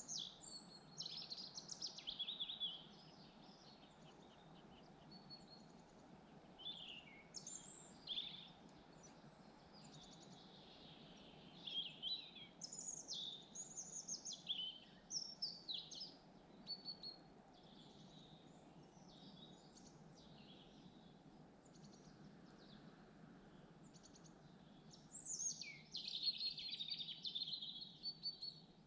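Several songbirds singing in bouts of quick, high, warbling phrases, with pauses between, over a steady low background rush.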